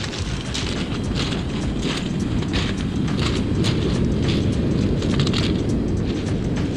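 Beach ambience: a steady low rumble of wind and surf, with a crisp crunch about every half second.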